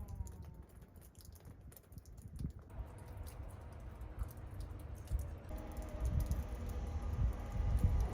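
Footsteps crunching in fresh snow, heard as irregular crisp clicks, over a low rumble of wind on the microphone.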